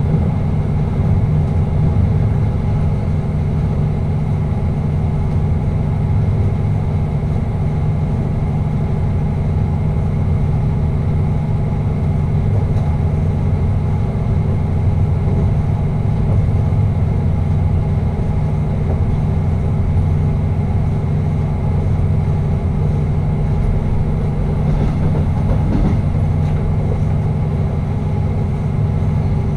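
Steady running noise of a passenger train heard from the driver's cab: a constant low drone with steady tones, unchanging throughout.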